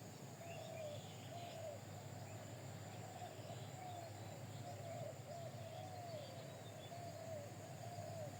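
Birds calling: a steady run of short, arched low calls, each rising and falling and repeating about every second, with faint higher chirps over a steady low hum.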